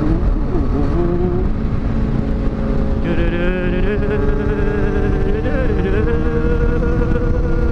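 Motorcycle engines running while riding, with a steady, slowly shifting engine note over a heavy low rush of noise. About three seconds in, a second, higher-pitched engine note joins and wavers.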